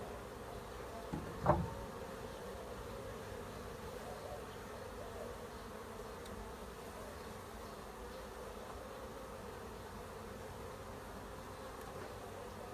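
Honeybee colony buzzing steadily around an opened hive, with two short knocks about a second and a half in.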